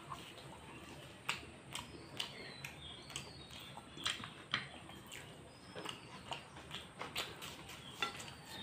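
Close-up chewing of a crisp deep-fried potato chop (alur chop): irregular sharp crunches and wet mouth clicks, about one or two a second.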